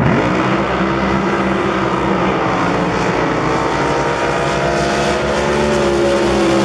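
Racing drag boat engine at full power, its pitch climbing sharply at the start and then holding high and steady through the run.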